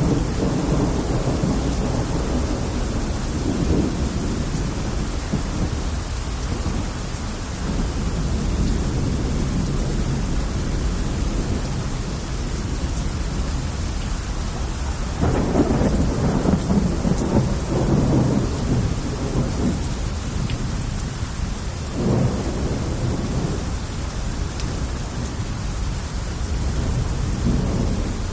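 Steady heavy rain hissing throughout, with deep rumbling swells. The rumbles are loudest about halfway through and again briefly a few seconds later.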